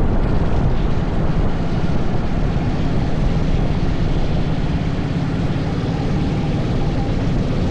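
80cc go-kart engine running hard at racing speed, heard from on board the kart, with heavy wind rush on the microphone.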